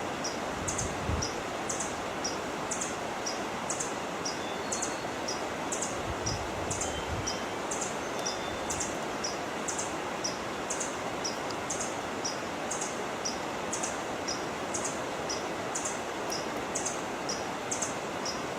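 A steady rushing hiss with a high-pitched chirp repeating evenly, roughly once a second, from a bird or insect. The sound cuts off suddenly at the end.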